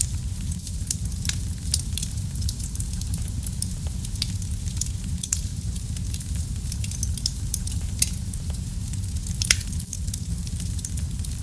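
Wood fire crackling in a fireplace: a steady low rumble of flames under frequent sharp pops and snaps, with a couple of louder snaps in the last few seconds.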